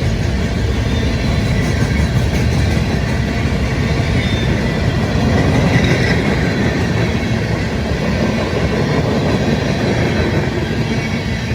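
Freight train rolling past: a steady rumble of wheels on the rails, swelling a little around the middle.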